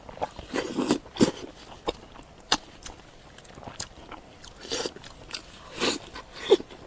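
Close-miked eating: bites and crunchy chewing, with irregular sharp crunches a second or so apart.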